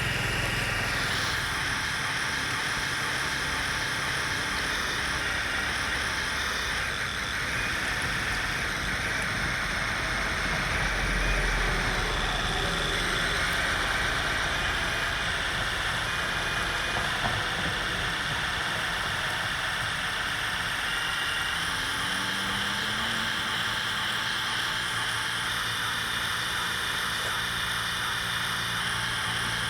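Remote-control model bulldozer and dump truck running, their small motors and gearboxes giving a steady whirring whine with small rises and falls as they work.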